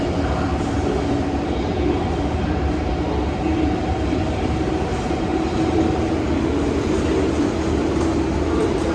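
A train running at a station platform: a steady rumble with a thin steady hum that fades out about six seconds in.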